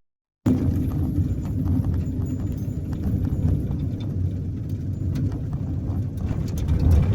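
Road and tyre noise heard from inside a moving campervan: a steady low rumble with faint scattered rattling ticks. The sound begins after a half-second break.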